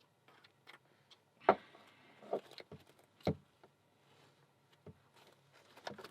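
Small metal clicks and taps of padlock parts being handled and fitted back together, with two louder knocks, one about a second and a half in and another about three seconds in.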